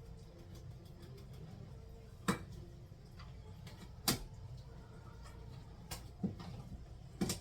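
A handful of sharp, separate knocks and clicks from kitchen things being handled, about five spread over the stretch, the loudest about four seconds in, over a low steady hum.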